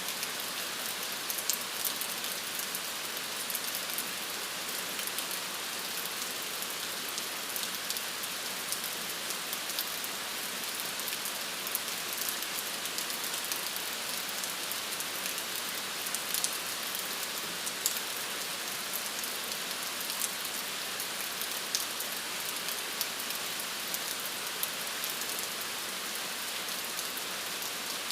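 Steady rain falling on a surface, an even hiss with many scattered individual drop ticks.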